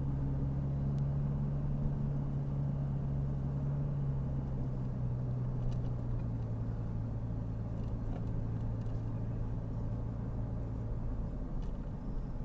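Car engine and tyre noise heard from inside the moving car, a steady low drone whose pitch dips slightly about four seconds in and which eases off near the end.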